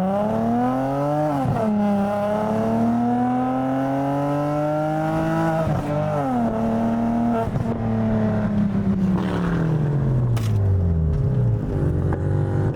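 A car's engine at full throttle during a hard acceleration pull. The pitch climbs, drops sharply at an upshift about a second in, climbs again and shifts again about six seconds in, then falls away steadily as the car comes off the throttle and slows.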